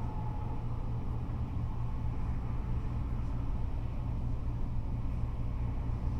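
Steady low rumble of freeway traffic, cars and trucks going by.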